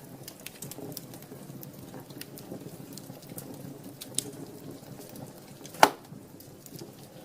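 Wood fire in a fireplace crackling, with a low steady rush of flames and scattered small snaps. There is a sharper pop about four seconds in and a loud pop near six seconds.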